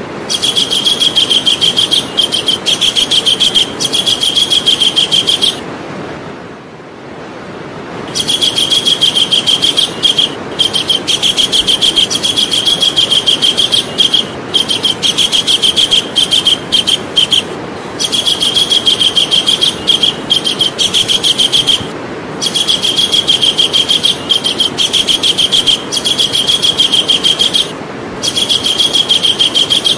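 Javan kingfisher calling loudly: long runs of rapid, rattling repeated notes lasting a few seconds each, separated by short breaks, with a longer pause about six seconds in.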